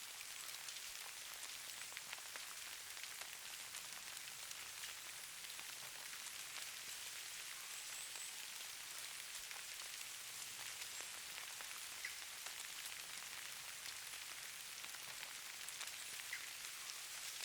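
Soft, steady hiss of falling precipitation pattering on a surface, with many tiny ticks scattered through it.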